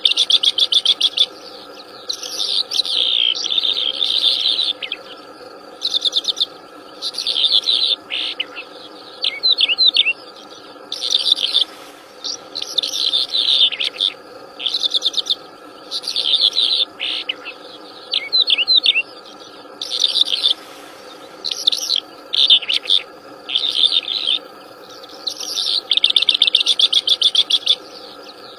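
A wild songbird singing in repeated bursts of rapid, high chattering and trilling notes, each burst a second or two long with short pauses between, over a steady faint background drone.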